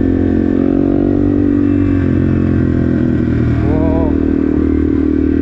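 Yamaha TW200's air-cooled single-cylinder four-stroke engine running steadily as the bike rides along.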